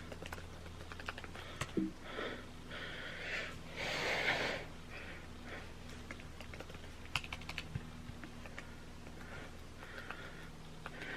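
Typing on a computer keyboard: irregular key clicks, with a brief rush of noise about four seconds in, over a steady low hum.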